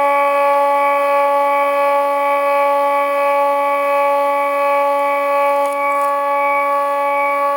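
Stepper motors of a CNC hot-wire foam cutter whining as they drive the wire through the foam at a constant rate: one steady, unwavering pitched tone with many overtones.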